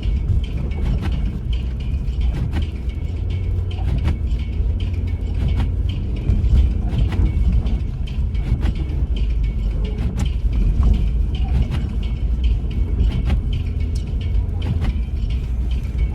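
Car driving on a snow-covered road, heard from inside the cabin: a steady low rumble of engine and tyres, with scattered clicks and creaks throughout.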